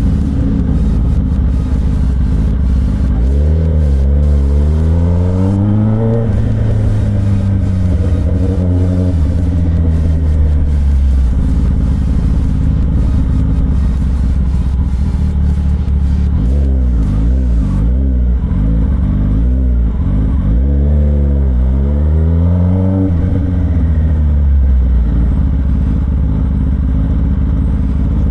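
Kawasaki ZX10R inline-four with its catalytic converter and stock exhaust removed, riding and accelerating. The revs climb and drop twice, about three to six seconds in and again about sixteen to twenty-three seconds in, over a steady low engine note.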